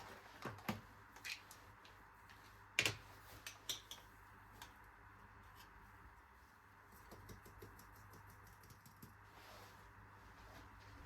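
Scattered light clicks and taps, with one louder knock about three seconds in and a quick run of fine ticking clicks in the second half, over a faint steady hum.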